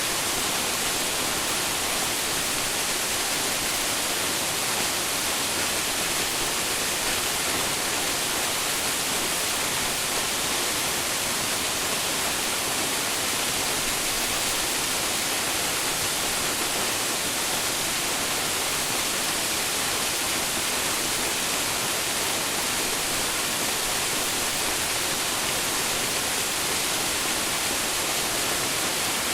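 Waterfall: a steady, even rush of falling water, a continuous hiss strongest in the high range, without change.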